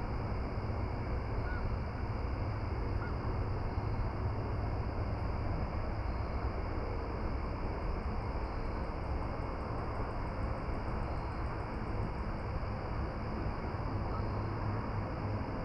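Steady outdoor noise with a constant low rumble and an even hiss, no change in level throughout.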